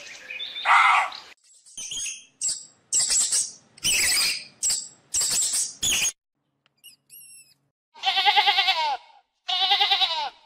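A run of animal calls: a loud cry, then several short sharp calls, a few faint bird chirps, and two wavering bleats near the end, typical of a goat.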